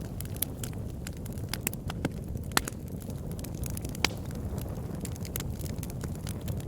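Wood fire burning in a fireplace: a steady low rumble of flames with irregular sharp crackles and pops, two of them louder, about two and a half and four seconds in.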